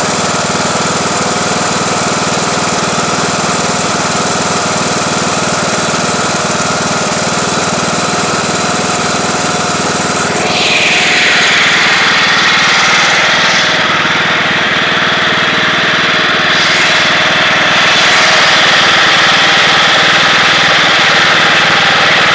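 Craftsman YT3000 lawn tractor engine running steadily. About halfway through, the sound grows a little louder and brighter. The engine is smoking, which the owner blames on a blown head gasket.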